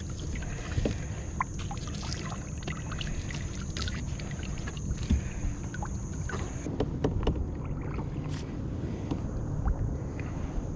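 Water moving against a kayak's hull, with scattered small clicks and knocks of gear being handled. A steady high thin whine runs along above it and stops about two-thirds of the way through.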